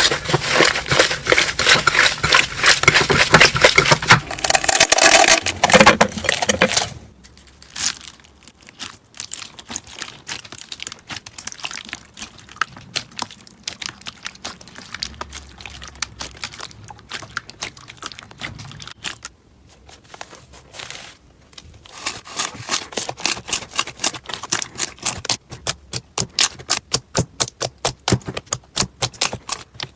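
Slime being squeezed and poked by hand, making a dense crackling of small clicks and pops. It is loud at first, turns quieter and sparser after about seven seconds, then picks up again near the end as a fast run of sharp clicks.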